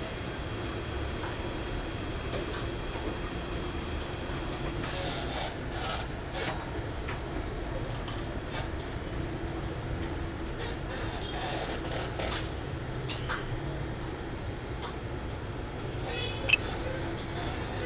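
Hot-air rework gun blowing steadily while soldering a NAND flash chip, with scattered light clicks and one sharp click near the end.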